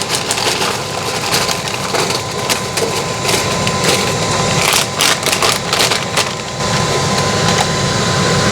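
Aluminium foil crinkling and crackling as a sheet is pressed and handled in an air fryer basket, with a run of louder crackles about halfway through.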